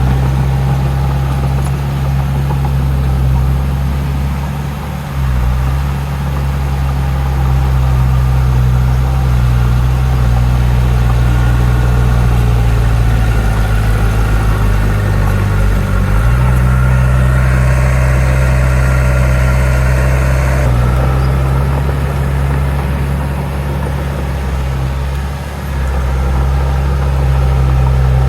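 Heavy diesel engine of earthmoving machinery running with a steady deep drone. Its note shifts for a few seconds around the middle, and a hiss comes in briefly soon after.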